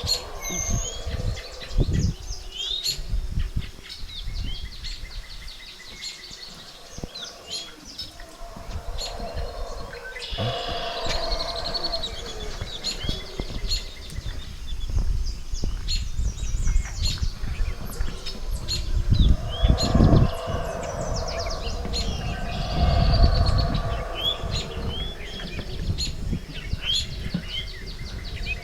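Jungle dawn chorus: many birds chirping and calling, with the deep roars of distant howler monkeys swelling up twice, about ten seconds in and again near twenty seconds.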